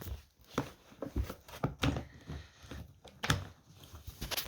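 Irregular knocks and clicks of hands working the plastic parts of a Numatic Henry vacuum cleaner, pushing a new filter and dust bag into place.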